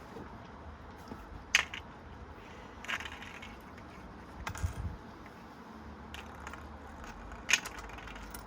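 Coins clinking against a running Precept washing machine, four or five sharp metallic clicks over the machine's low steady hum.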